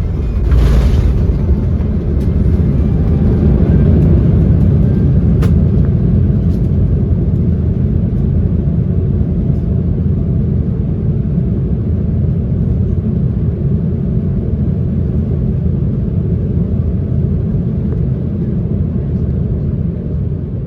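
Airbus A350 landing, heard from the cabin: a sharp thump about a second in, then a loud, steady low rumble that swells over the next few seconds and eases slightly toward the end.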